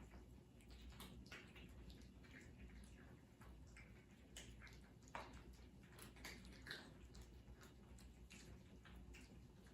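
Cats eating: faint, irregular small clicks of chewing and mouthing food, over a low steady hum.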